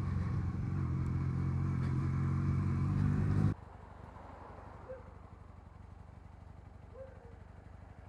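1984 Honda CB450SC Nighthawk's parallel-twin engine running steadily on the move. It cuts off suddenly about three and a half seconds in, leaving only a faint background with two short, soft tones.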